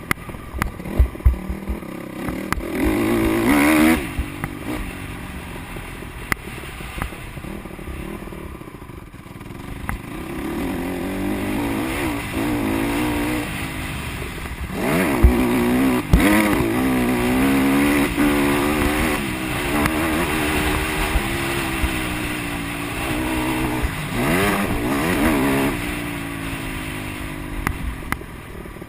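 Honda CRF150R dirt bike's four-stroke single-cylinder engine revving up and down as it is ridden on a motocross track, loudest as it comes close about four seconds in and again through the middle and later part. A few sharp knocks near the start.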